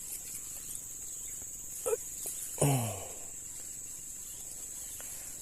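Steady high-pitched buzz of an insect chorus in the background. About two and a half seconds in, a man gives a short grunt that falls in pitch, just after a brief faint squeak.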